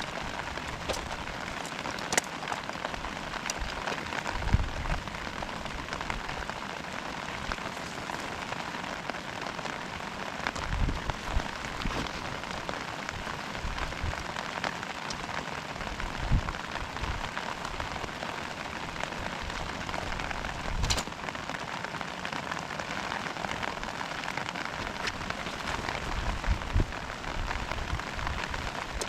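Heavy rain falling steadily, with scattered louder drop hits and occasional low thumps.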